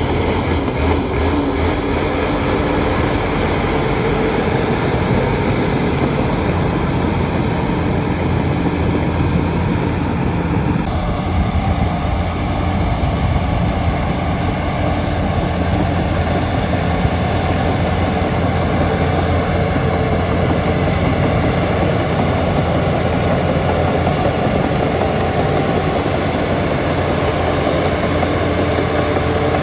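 Heavy diesel earthmoving machinery running steadily under load. The engine sound shifts about eleven seconds in.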